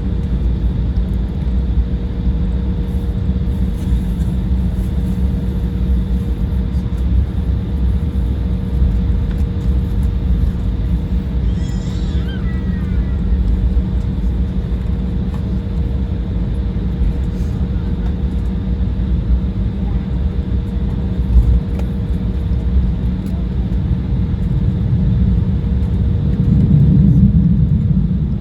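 Steady rumble and hum of the Embraer 175's General Electric CF34 turbofan engines and airframe, heard inside the passenger cabin, with a steady whine over it. The low rumble swells near the end.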